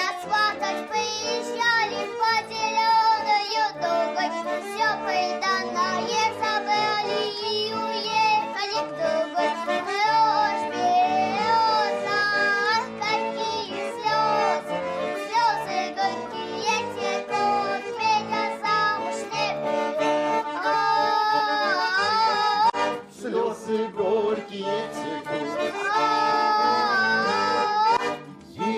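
Garmon (Russian button accordion) playing a folk-song tune.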